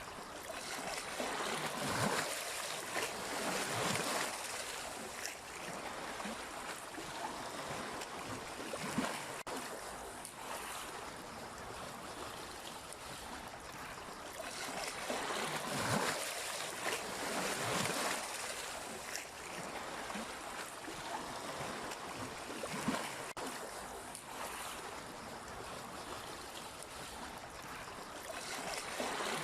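Sea waves washing in, a steady rush of water with louder splashing surges every few seconds.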